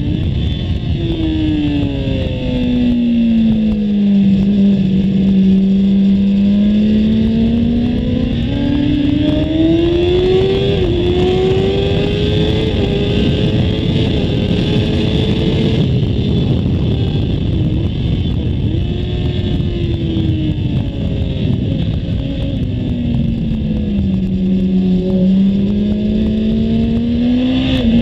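Kawasaki ZX-10R's inline-four engine at speed on track: its note falls as the bike slows into a corner, then climbs steadily as it accelerates out, and does so again near the end. Wind rushes over the microphone throughout.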